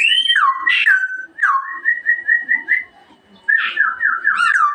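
Straw-headed bulbul (cucak rowo) singing loud, liquid whistled phrases of repeated downward slurs. Its song falls silent for about half a second around three seconds in, then resumes with a faster run of slurred notes.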